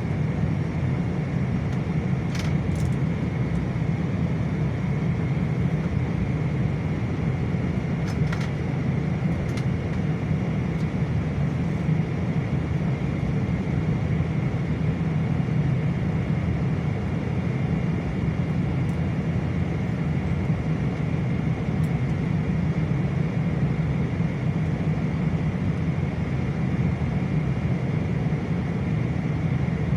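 Steady cabin noise of a Boeing airliner: an even low rumble of engines and airflow with a faint steady whine above it.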